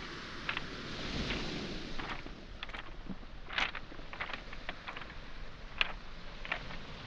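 Footsteps on beach pebbles and small boulders, stones clicking sharply against each other at irregular intervals over a steady wash of waves on the shore.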